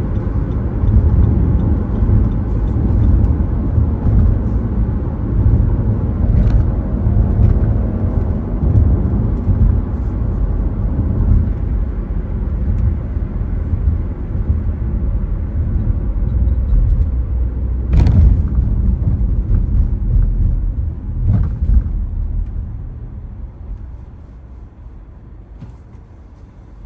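A car being driven: steady low road and engine rumble, with a few short knocks, the sharpest about eighteen seconds in. The rumble dies down over the last few seconds.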